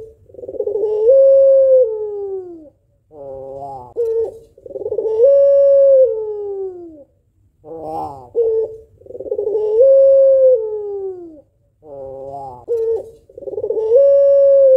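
A female white puter pelung dove (Barbary dove) cooing in a repeated call, about one phrase every four seconds. Each phrase is a short rolling stutter, then a long, drawn-out coo that holds its pitch and falls away at the end. It is the long, melodious call a hen gives to draw a male into cooing.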